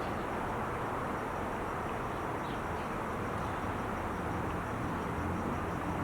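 Steady, continuous noise of distant Interstate 5 freeway traffic, the blended sound of many vehicles' tyres and engines with no single vehicle standing out.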